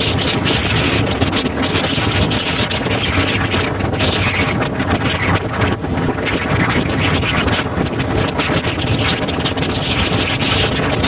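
Motorcycle running at speed with heavy wind buffeting on the microphone, a steady loud rush over a low engine note.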